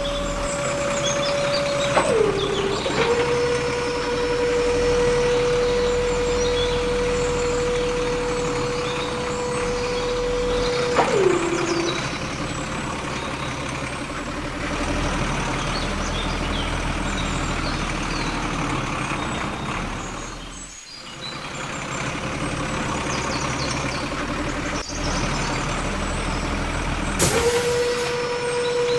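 Small electric motor of a DIY miniature tractor or JCB whining at a steady pitch. The pitch sags twice as it takes load. Near the end there is a sharp burst of noise, and then the whine resumes. Birds chirp faintly in the background.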